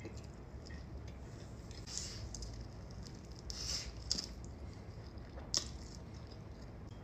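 Close-miked eating: soft wet squishy chewing of French fries, with a few short hissy mouth sounds and two sharp smacks about four and five and a half seconds in.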